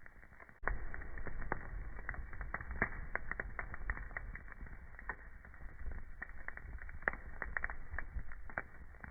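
Wood fire crackling, with frequent sharp pops and snaps of burning wood. A low rumble of the flames sets in suddenly just over half a second in and eases near the end.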